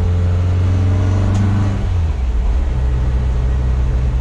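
A VW 2332 cc air-cooled flat-four stroker engine with dual Weber IDF 44 carburettors, heard from inside the bus cab while driving. It pulls steadily with its note rising slightly. About two seconds in, the note drops, as with an upshift, and then carries on steady at the lower pitch.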